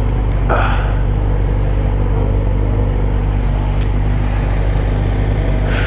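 A motorcycle engine idling steadily, with an even, unchanging note and no revving. Short hissy noises come about half a second in and again near the end.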